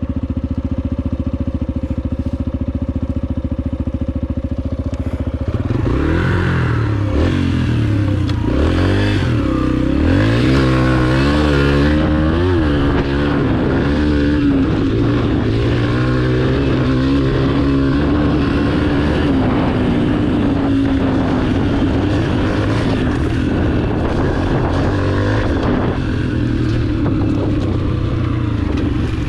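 Small dirt bike engine idling, then from about six seconds in revving up and down several times before holding a steadier, higher running note.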